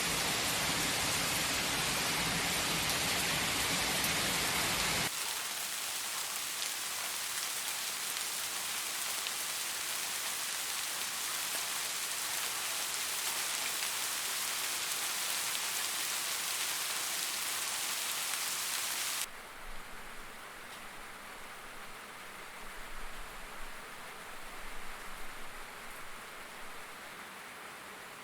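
Rain falling as a steady hiss, cut abruptly twice to other rain recordings: full and heavy for the first few seconds, lighter and higher-pitched after that, and noticeably quieter for the last third.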